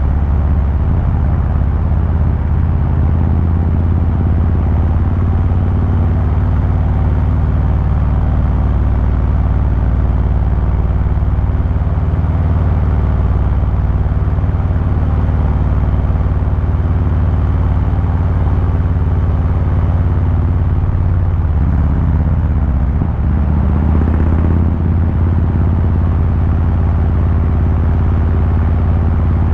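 2023 Harley-Davidson Fat Boy 114's Milwaukee-Eight 114 V-twin engine and exhaust running steadily under way at a relaxed pace, with a brief change in engine pitch a little over twenty seconds in.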